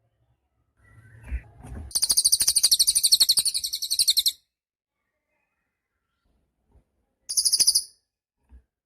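Cililin songbird calling: a loud, rapid, high-pitched trill of about two seconds, then a second short burst of the same call about three seconds later. A few soft knocks come just before the first trill.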